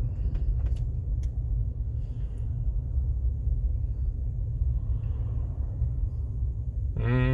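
Small car driving, heard from inside the cabin through a phone's built-in microphone: a steady low rumble of engine and tyres on the road, with a few faint clicks.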